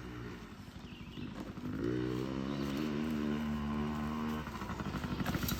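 Yamaha PW mini dirt bike's small two-stroke engine under the rider's throttle: eased off at first, it picks up about two seconds in and holds a steady pitch, drops off sharply about four and a half seconds in, then revs back up near the end.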